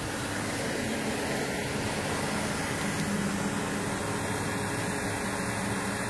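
Steady hum of idling car engines and street traffic, with no sudden events.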